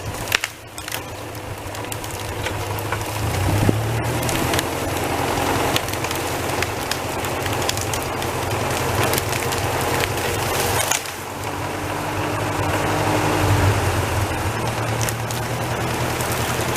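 An engine running steadily under load, its pitch shifting twice, while branches and wood crack and snap as a felled tree is pulled free of the brush.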